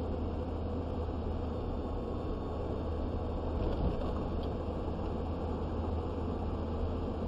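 Steady road noise inside a moving vehicle's cab: engine and tyres humming evenly, with a deep low rumble and a hiss over it.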